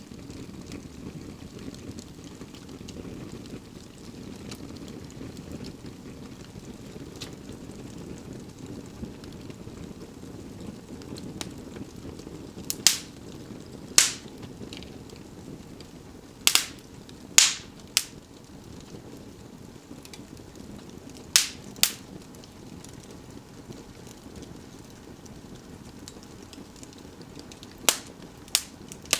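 Fire burning in an indoor fireplace: a steady low rush of flame with about ten sharp crackling pops, scattered through the second half.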